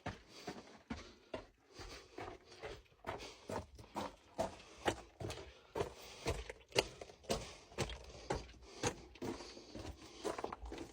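A rapid series of irregular knocks or impacts, about two or three a second, some louder than others.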